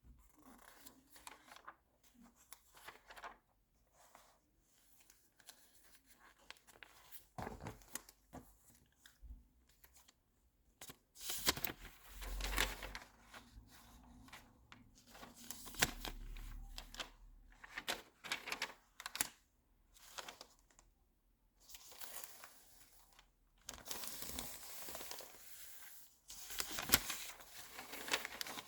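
Glossy magazine pages being handled and turned close to the microphone: soft crinkles and paper swishes in irregular bursts, with several louder page-turn sweeps through the latter half.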